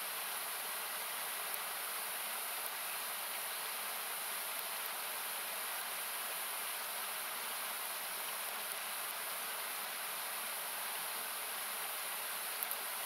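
Steady, hissy rush of a nearby river or waterfall, its low end cut away by equalising, with a few faint, sharp crackles from a wood campfire, two close together near the end.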